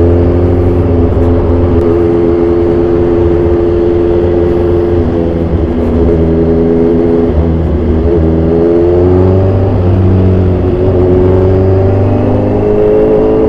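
2014 Kawasaki Z1000 Sugomi's inline-four engine running under way through an aftermarket exhaust. The engine note holds fairly steady, dips slightly a few times in the middle and rises near the end as the throttle opens.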